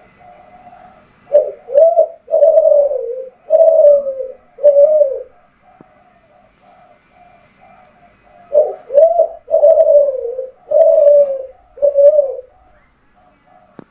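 Kelantan spotted dove (derkuku) cooing: two song phrases, each of five coos, two short upswept notes followed by three longer falling ones. Fainter, quicker cooing fills the gaps between the phrases.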